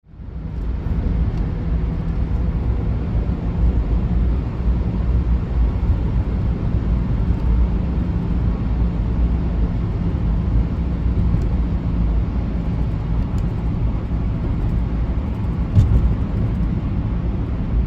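Steady rumble of a car driving, with road noise and a low engine hum heard from inside the car. It fades in from silence in the first second.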